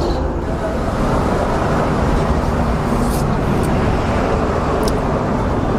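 Steady rumble of road vehicles on the highway, a loud even noise.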